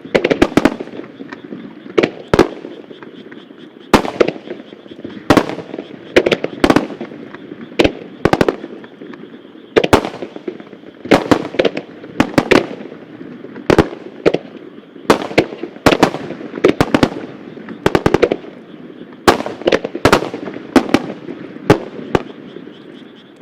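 Fireworks star mine barrage: aerial shells bursting in rapid succession, sharp bangs in tight clusters about every second, with a rumbling echo carrying between them.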